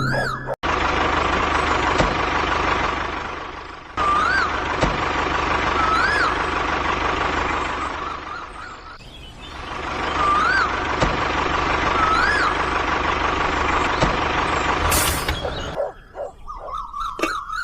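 A machine running steadily with a held high whine, fading away twice. Two pairs of short rising-and-falling chirps sound over it, and near the end there is a brief hiss before it breaks up and stops.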